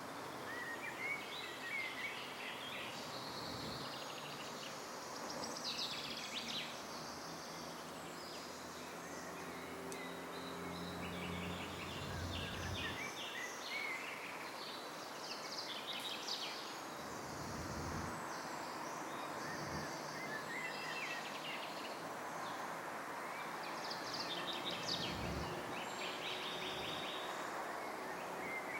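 Wild birds calling and singing, with short chirps and rapid trills repeating every few seconds over a steady hiss of outdoor background noise.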